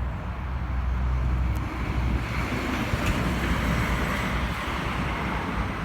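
Steady low rumble and hiss of wind on the microphone and passing road traffic, the hiss swelling a little after about two seconds.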